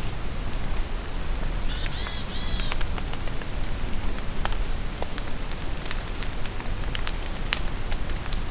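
Steady rain falling in a forest, with single drops ticking close by. A songbird gives a short burst of song about two seconds in, and brief high chirps sound now and then.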